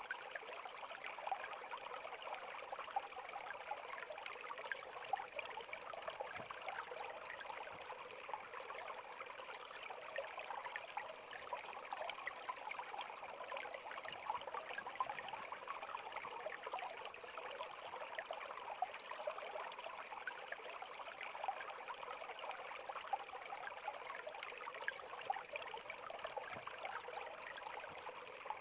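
River water flowing and babbling over rocks: a steady rushing sound with many small splashes and gurgles.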